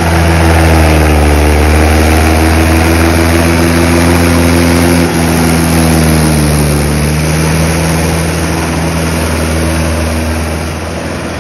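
Mahindra tractor's diesel engine running steadily close by. The engine note sags slightly midway and gets a little quieter near the end.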